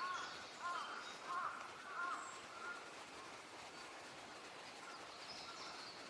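Wild birds calling in woodland: a run of short, repeated arched calls in the first two and a half seconds, then a few thin high notes near the end, over a steady outdoor background.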